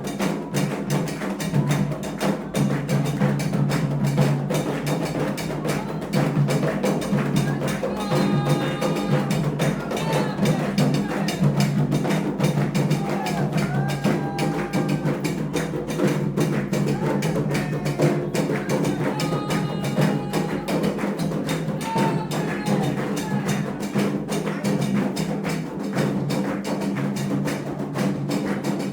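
Candomblé ceremonial drumming: fast, continuous hand-drum strokes with a sharp wood-block-like click in the rhythm. Short held voices rise over it twice, about a third and two-thirds of the way through.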